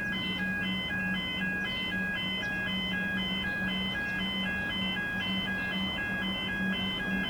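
A repeating electronic tone pattern: short, steady beeps alternating in pitch at an even rhythm of a few per second, over a pulsing low hum.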